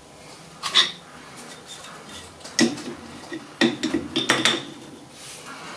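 Metal hand tools clinking against steel with a short ring: one clink about a second in, another near the middle, then a quick run of several.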